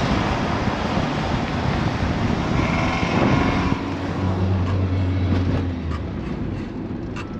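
2000 Honda Civic's engine pulling hard under wide-open acceleration, with loud wind and road rush, heard from inside the car. The noise drops abruptly a little under four seconds in, leaving a steady low drone.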